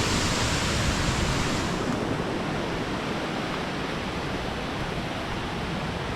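Small waterfall rushing steadily into its pool, a dense hiss of falling water; the hiss loses some brightness about two seconds in.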